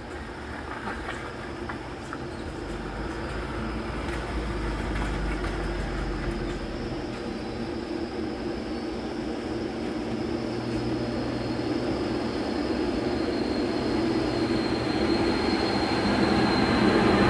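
Heavy trucks approaching, their engine and road noise growing steadily louder, with a faint high steady whine on top.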